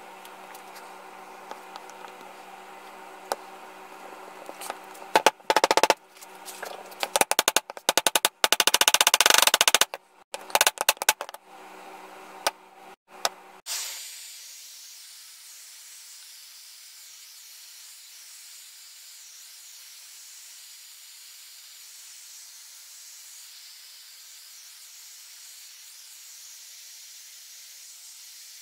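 CNC router spindle running with a steady pitched whine while its bit cuts wood in loud, choppy passes for several seconds. About halfway through the sound cuts off abruptly and a steady high hiss takes over.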